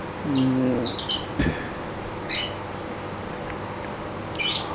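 Small birds chirping in short, high, repeated calls, one drawn out into a thin falling whistle about three seconds in. A brief low hum of a man's voice comes about half a second in, and a single soft knock about a second and a half in.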